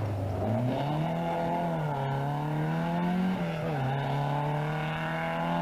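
Rally car engine pulling hard under acceleration, its pitch climbing through the gears and dropping at gear changes about two and three and a half seconds in.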